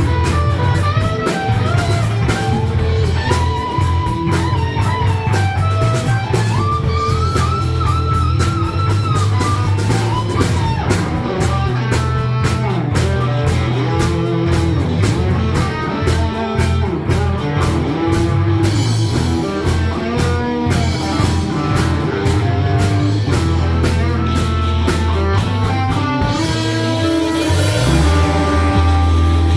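Rock music: an electric guitar plays melodic lead lines over bass and a drum kit, loud and continuous.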